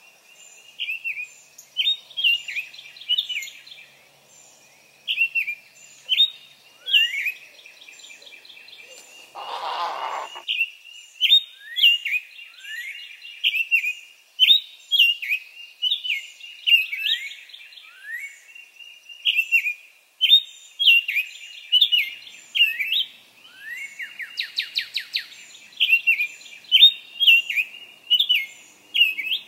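Songbirds calling, with short chirps and quick trills repeated over and over. About ten seconds in there is a brief rushing noise lasting about a second.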